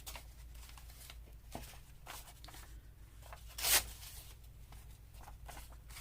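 Paper rustling and sliding as loose paper pieces are handled and sorted, in soft scattered touches with one brief louder rustle a little past halfway.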